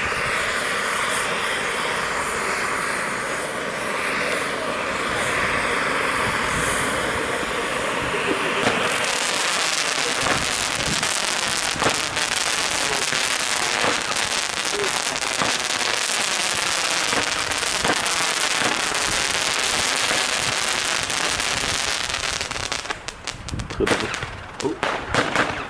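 Firework compound: a volcano fan fountain hissing steadily for about nine seconds, then its crossette batteries firing a dense, crackling run of shots. A few separate louder pops come near the end.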